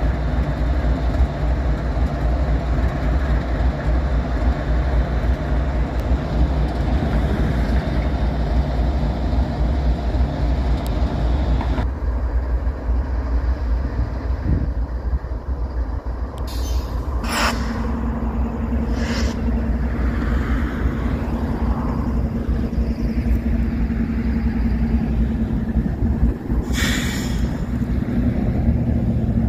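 Freight train's diesel-electric locomotives running past with a heavy, steady low rumble. Partway through it changes to a locomotive passing close with a steady engine hum, then freight cars rolling by, with a few sharp clicks.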